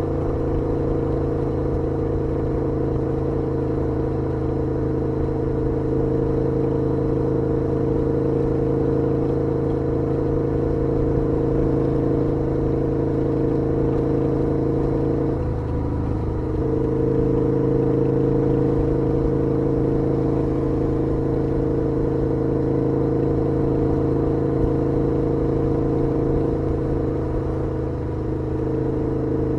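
KTM 1290 R's V-twin engine running steadily under way, heard from the rider's position, with a brief dip and shift in the engine note about halfway through.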